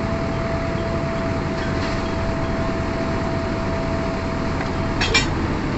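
Tractor engine running steadily, with a faint steady whine that stops about five seconds in and a brief clatter just after.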